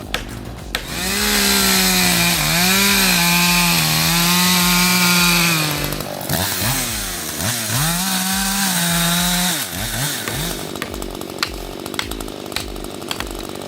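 Chainsaw engine at full throttle, cutting in two runs: one of about five seconds and, after a brief drop, another of about four seconds. The pitch dips and recovers as the chain bites. Quieter rapid ticking comes before and after.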